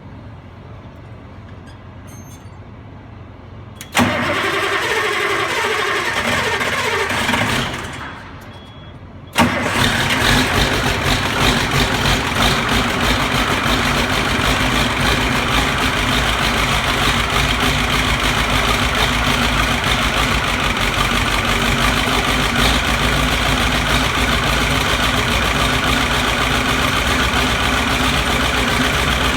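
White 4-210 tractor's diesel engine, straight-piped, started cold with no glow plugs or block heater. It is cranked for about three seconds starting about 4 s in, and the cranking dies away. About 9 s in it fires and then runs steadily for the rest of the time.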